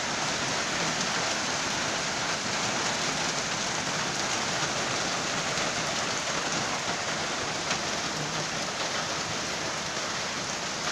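Steady heavy rain falling, a dense even hiss with no letup.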